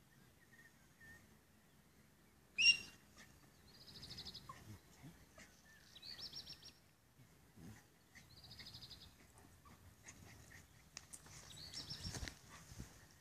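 A songbird repeating a short, fast, high trill every two to three seconds. A single brief, sharp, high call stands out about three seconds in.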